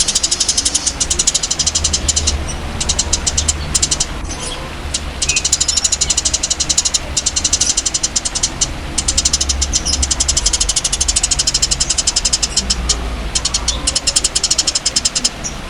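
Songbird training-recording chatter: a fast, high, rattling trill of even clicks, many a second, broken by a few short pauses, over a steady low rumble.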